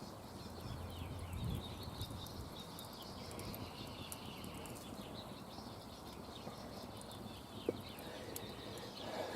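Faint outdoor ambience with small birds chirping repeatedly, and one sharp click near the end.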